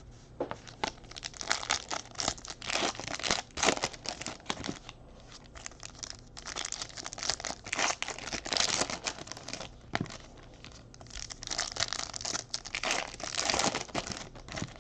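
Trading card pack wrappers crinkling and tearing as packs are opened by hand, in bursts with short pauses between them.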